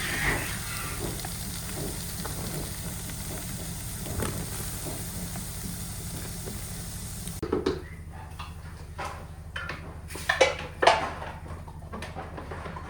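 Kitchen cooking sounds: a steady sizzle-like hiss that cuts off about seven seconds in, followed by several clinks and knocks of pots, utensils and dishes over a low steady hum.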